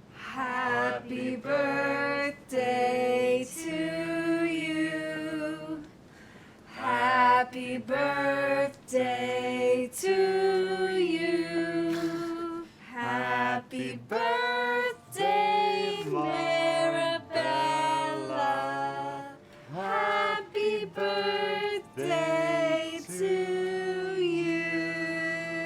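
Singing, mostly female voices, in phrases of held and bending notes with little accompaniment.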